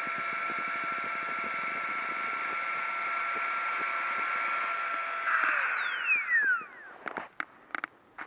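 Flextail Tiny Pump 2 mini electric air pump running with a steady high whine, switched off about five seconds in and spinning down with a falling pitch. A few light clicks and knocks of handling follow.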